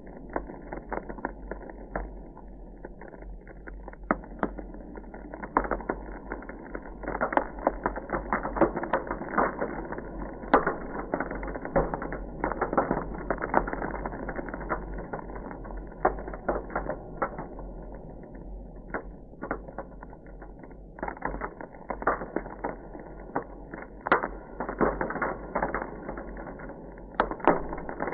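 Ice crackling and popping: a dense, irregular run of sharp clicks and snaps, busiest through the middle and thinning for a few seconds later on.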